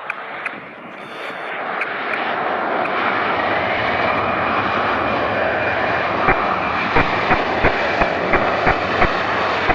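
Airbus A319 jet airliner's engines, a roar that swells over the first few seconds and then holds steady, with a faint rising whine. In the second half come sharp clicks, about three a second.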